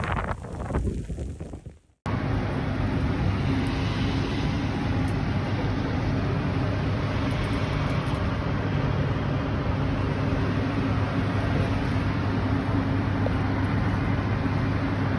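After a sudden cut about two seconds in, a vehicle engine runs steadily: a constant low hum under an even rushing noise.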